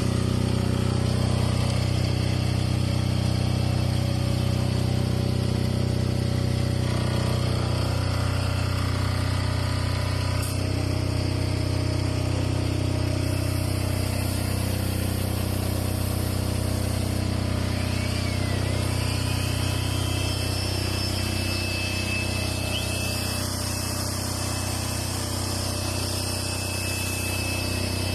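Fujimoto 10 kVA air-cooled diesel generator engine running steadily at constant speed.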